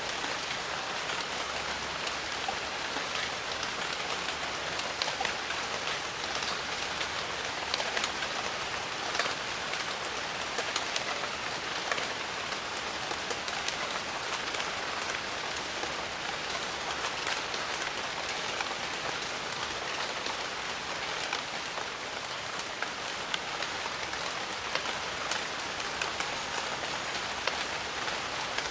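Steady rain falling on jungle foliage: a dense, even hiss of many drops, with individual drops ticking sharply throughout.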